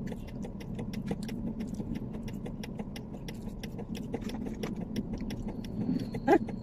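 Car engine idling, heard from inside the cabin as a steady low hum, with a quick, uneven run of light clicks over it.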